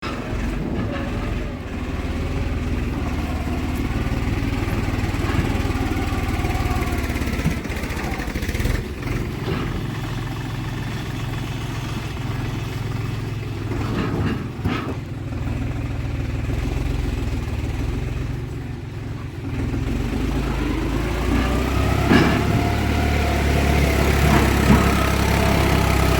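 JCB 3DX backhoe loader's diesel engine running under load, its pitch rising and falling as it works, with a few sharp knocks about halfway through and again later.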